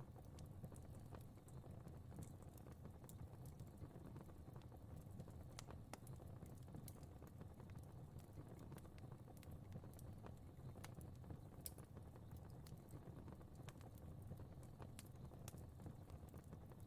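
Fire crackling faintly: scattered sharp pops and ticks over a low, steady rumble of flames.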